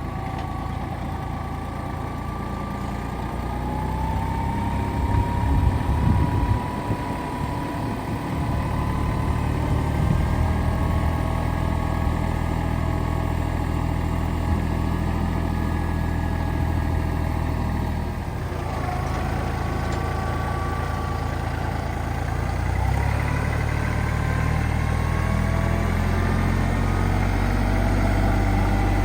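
Kubota tractor's diesel engine running, its speed changing. It revs up about four seconds in, drops back near eighteen seconds, and picks up again about twenty-three seconds in.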